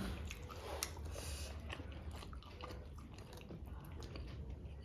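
Someone chewing food close to the microphone: soft wet smacks and small scattered clicks of eating.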